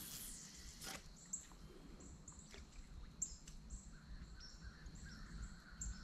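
Faint outdoor ambience with small birds chirping: short high chirps about once or twice a second. Two soft clicks come near the start, about a second apart.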